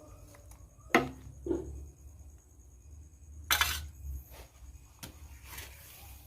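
Work noises: a sharp knock about a second in, another soon after, a short hissing burst about three and a half seconds in and a fainter click near five seconds, over a steady low hum.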